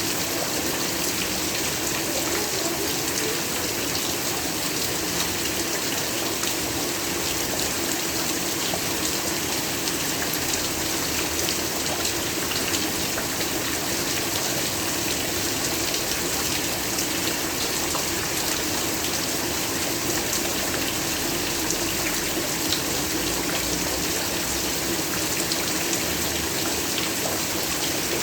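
Heavy rain falling steadily: an even hiss of rainfall with scattered drop ticks, unchanging throughout.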